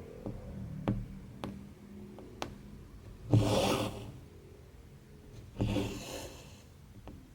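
Hand cross-stitching: two half-second rasps of thread being drawn through the fabric, about three and five and a half seconds in, with a few light clicks of the needle against the fabric between them.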